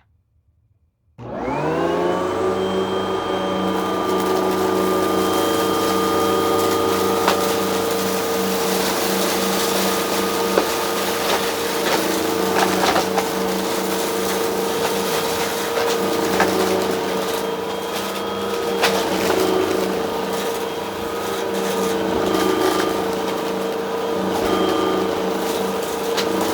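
A vacuum cleaner is switched on about a second in, its motor quickly spinning up to a steady whine. It then runs steadily while sucking up crunchy debris, which clicks and crackles as it goes up the nozzle.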